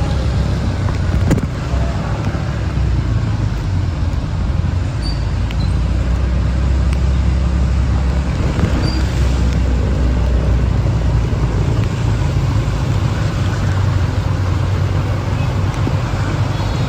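Steady road-traffic noise with a strong low rumble of vehicle engines.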